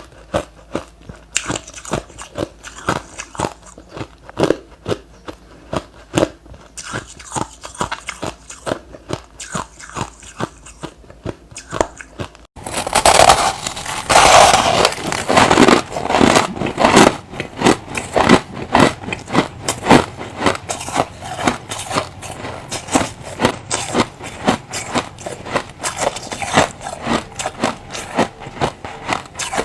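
Close-miked biting and chewing of hard refrozen crushed ice: a fast series of sharp crunches. About twelve seconds in it breaks off for an instant and resumes louder and denser.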